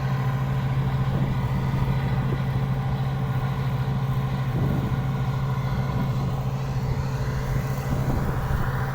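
Engine of a harvesting machine running steadily at constant speed, with an even, unchanging hum.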